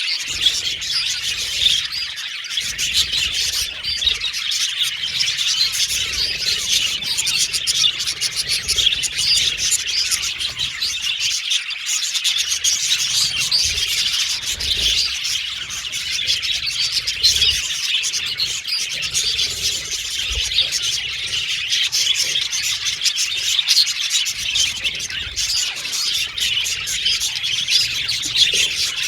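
A group of budgerigars chirping and warbling continuously, many rapid overlapping high chirps.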